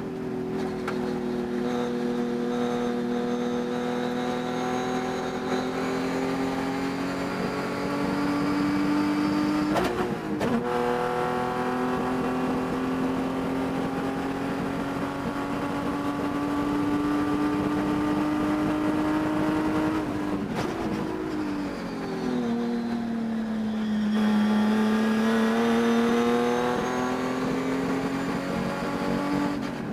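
Race car engine under load, its pitch climbing slowly over long stretches and dropping sharply about ten seconds in and again about twenty seconds in. The engine has a high-RPM miss that the driver could not cure and says can be heard during the race.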